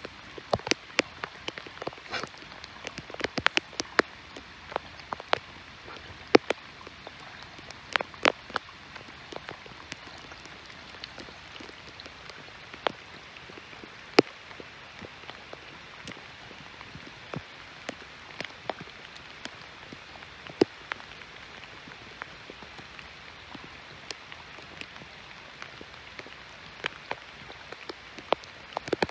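Rain falling: a steady hiss with irregular sharp drops striking close to the microphone.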